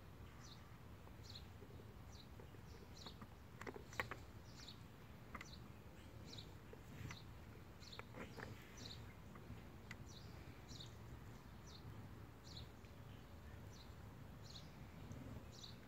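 Faint bird chirping in the background, short high downward notes about once or twice a second. A few light clicks from glass test tubes being handled, the sharpest about four seconds in and a couple more near eight seconds.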